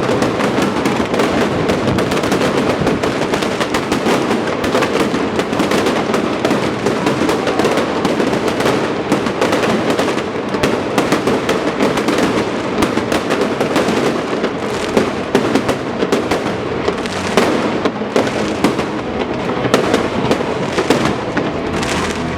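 A fireworks display going off, a dense unbroken barrage of bangs and crackling.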